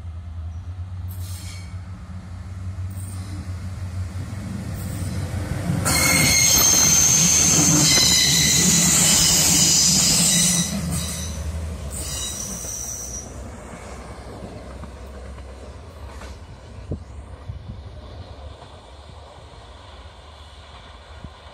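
Red regional diesel multiple unit running past close by: a low engine rumble, with a loud high-pitched wheel squeal on the rails for about four seconds near the middle and a shorter squeal just after. The sound then fades to a quieter rumble.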